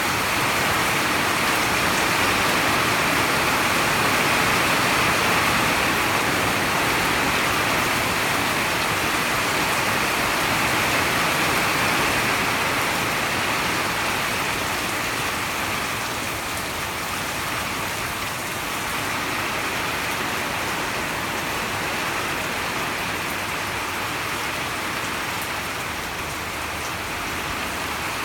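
Heavy storm rain pouring down steadily, as an even rushing hiss that eases a little about halfway through.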